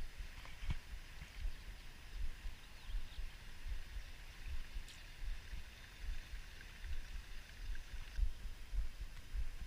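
Wind buffeting the microphone in irregular low rumbles, over a faint steady outdoor hiss.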